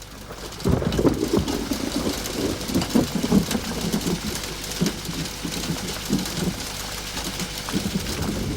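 Steady rain hiss with irregular low rumbles of thunder, building in over the first second.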